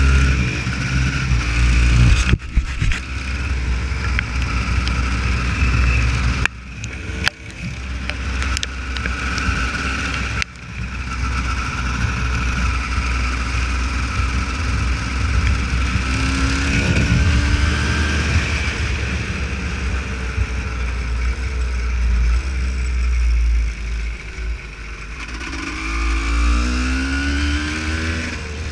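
Honda CR250 two-stroke motocross engine being ridden offroad, the revs rising and falling again and again, with a few sudden sharp drops in sound in the first ten seconds.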